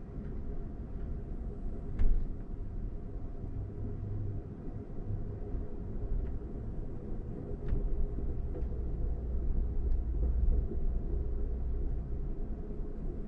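Amtrak passenger train running, heard from inside the car: a steady low rumble of wheels on rail, with one sharp knock about two seconds in and a few faint ticks later.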